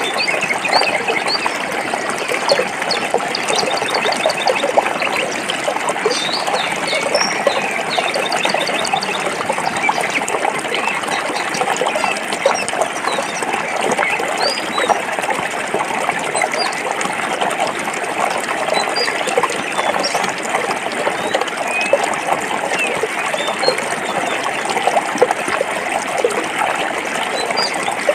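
Stream water running and splashing over rocks, a steady dense babble. Small birds chirp now and then above it.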